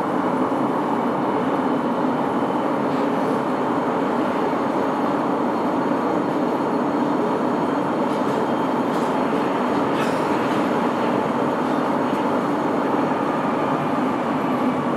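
Interior running noise of a Sapporo Namboku Line 5000-series rubber-tyred subway car travelling steadily through the tunnel: an even, continuous rumble with a few faint clicks.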